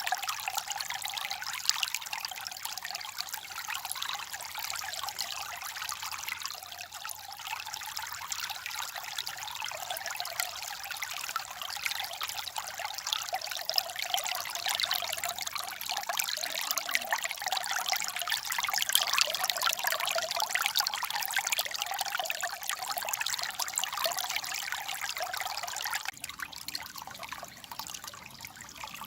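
Water babbling and trickling in a steady rush with no letup, turning quieter and softer about three seconds before the end.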